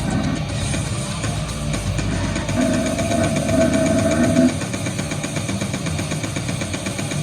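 Live goregrind-style harsh noise music: a dense, distorted wall of electronic noise. About two and a half seconds in a louder, higher layer joins it and cuts off suddenly about two seconds later.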